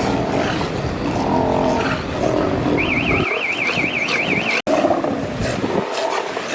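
Sea lions calling: deep, hoarse bellows, with a high warbling tone over them for about two seconds in the middle.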